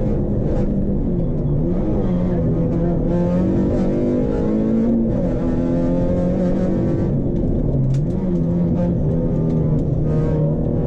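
Rally car engine heard from inside the cabin, pulling hard, its note dipping and climbing again twice as the driver lifts off and changes gear while slowing for a chicane. A few sharp clicks come about eight seconds in.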